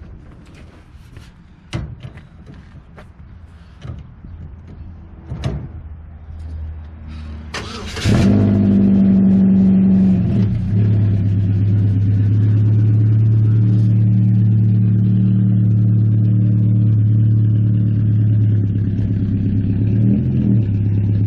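A few knocks and clicks, then about eight seconds in a race car's engine is started with a short burst and runs loud and steady, its pitch shifting slightly near the end.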